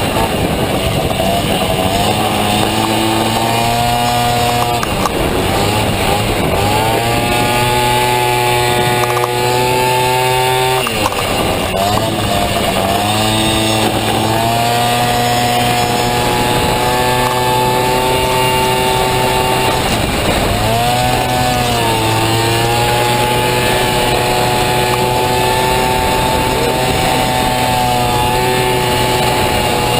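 Honda Motocompo's two-stroke Honda Dio scooter engine racing at high revs, loud. The engine note drops sharply three times, about 5, 11 and 20 seconds in, as the throttle is shut, then climbs back each time under acceleration.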